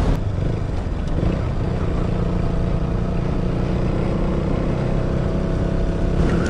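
KTM Duke 200's single-cylinder four-stroke engine running steadily under way, over a dense low rumble of wind noise on the microphone.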